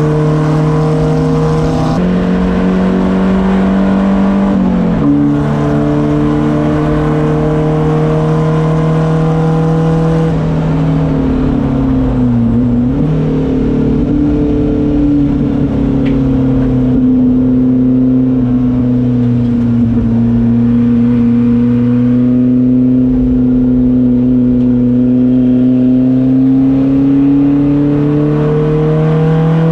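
Volvo 240 race car's engine heard from inside the cabin, running hard at speed on track. The pitch holds steady with a couple of small shifts early on, dips around twelve seconds in as the car slows for a corner, then climbs slowly under acceleration near the end.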